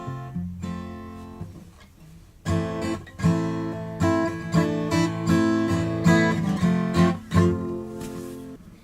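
Mid-1970s Fender F35 acoustic guitar being test-played after repair: a few picked notes that die away, then strummed chords from about two and a half seconds in. The action is still quite high, but it plays.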